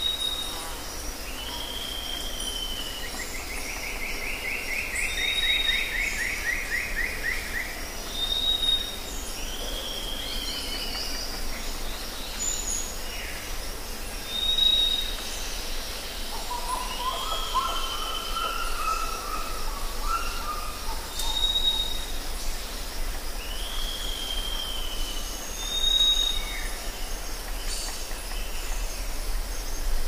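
Rainforest birds calling over a steady background hiss: a short high whistle repeated every few seconds, downslurred chirps, a long rapid trill a few seconds in, and a run of lower arching notes past the middle.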